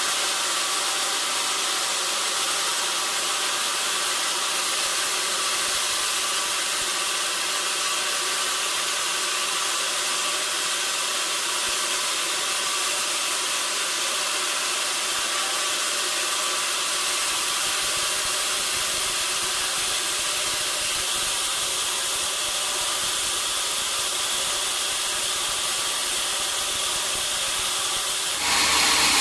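Sawmill machinery running steadily with a constant hum and whine. Near the end it grows louder and deeper.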